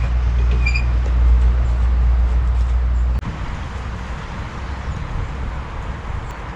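Steady low hum of an idling vehicle engine that cuts off suddenly about three seconds in, leaving faint, even outdoor background noise.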